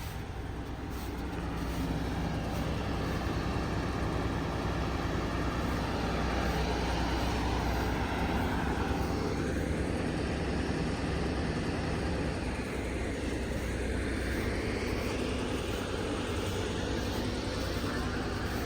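1972 O&K V12 diesel engine running cold, a steady deep rumble that grows slightly louder over the first couple of seconds and then holds.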